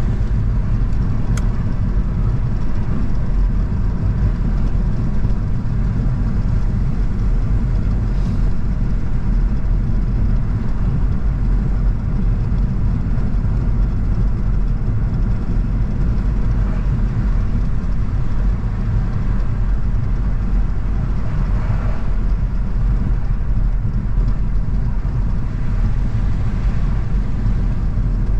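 Car on the move, recorded from a mounted camera: a steady drone of engine and tyre noise on the road, heaviest in the low end and unchanging throughout.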